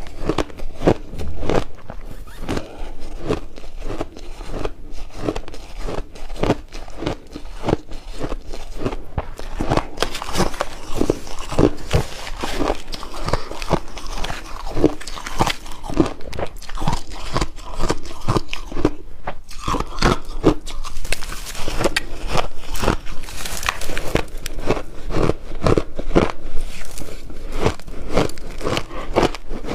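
Ice cubes being bitten and chewed close to the microphone: a rapid, continuous crunching and crackling, several cracks a second.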